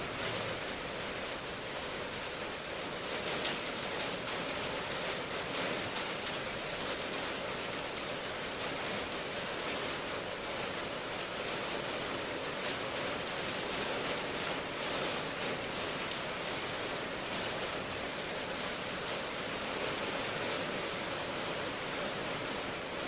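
Steady rain ambience: an even rush of rainfall with fine patter of drops on a surface.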